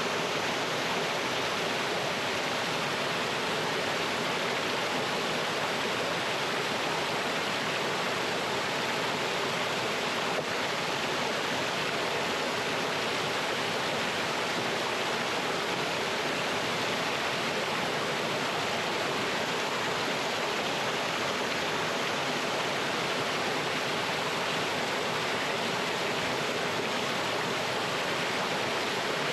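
Mountain stream pouring over rocks in a small waterfall: a steady, even rush of water that does not change.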